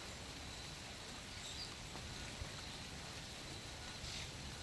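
Light steady rain: a soft, even hiss of falling drizzle.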